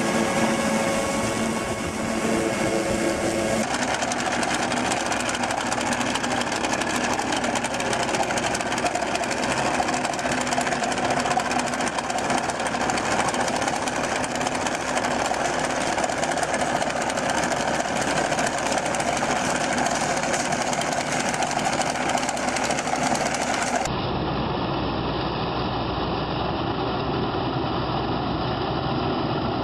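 Heavy farm machinery running steadily. The machine sound changes abruptly about four seconds in, and again near the end, where it becomes a duller engine sound.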